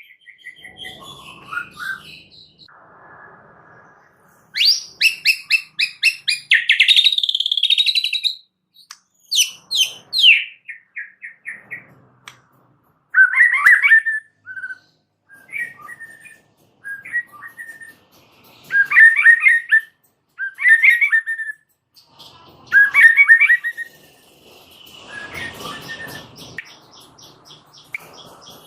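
White-rumped shama (murai batu) singing a long, varied song. It runs from fast chattering, trilling runs into short clear whistled notes, with a harsher rasping phrase near the end.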